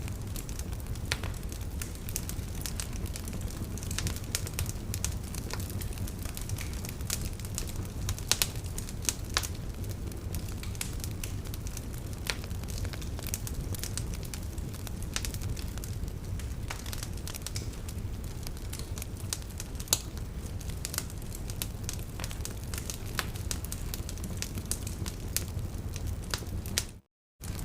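Wood fire crackling, with irregular sharp pops and snaps over a steady low rumble. The sound cuts out for a moment near the end.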